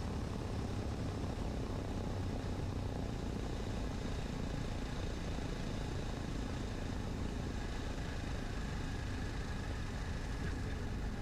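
Cessna 150's four-cylinder Continental O-200 engine at idle, power pulled back for landing, a steady drone of engine and airflow heard inside the cabin.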